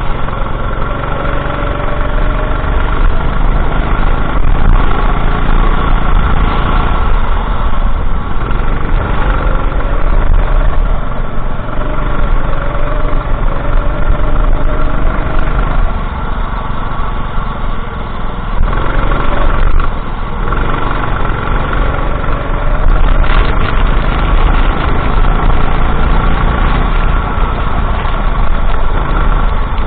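Go-kart engine running under racing load, its pitch climbing on the straights and falling back into the corners, several times over.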